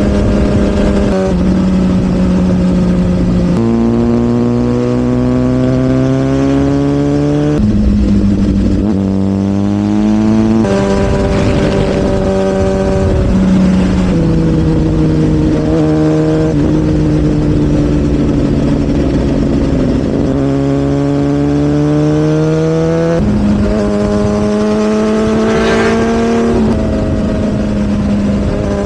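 Sportbike engine running under way, its pitch climbing steadily and then jumping to a new pitch several times as the rider changes gear.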